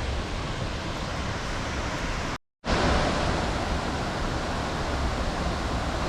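A 95-foot waterfall giving a steady rush of falling water. The sound drops out for a moment about two and a half seconds in, then returns a little louder.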